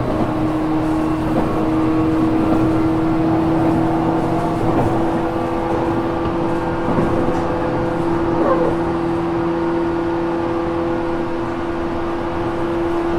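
Running sound inside a JR Kyushu 415 series 1500-subseries electric train's motor car (MoHa 414) under way. A steady droning whine from the traction motors and gears creeps slightly up in pitch over a low wheel-and-rail rumble. The recordist files this car as an odd-noise car (異音車).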